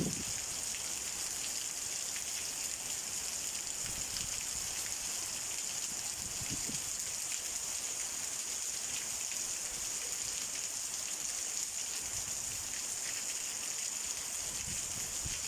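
Steady rain from a summer storm, an even, dense hiss of drops, with a few faint low thumps.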